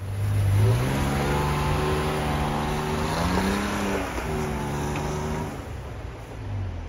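Toyota Tacoma pickup's engine accelerating while driving. The pitch climbs for a few seconds, dips at a gear change about four seconds in, then falls back to a low hum near the end.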